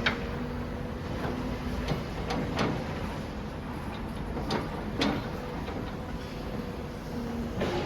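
Demolition machinery running with a steady engine hum, with about half a dozen sharp cracks and knocks of breaking masonry and rubble at irregular intervals.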